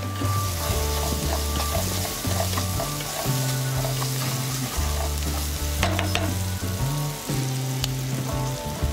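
Onion and tomato masala sizzling in oil in a nonstick pan while a spatula stirs and scrapes it, with a few sharp clicks of the spatula on the pan, the clearest about six seconds in. Background music with a low bass line plays under it.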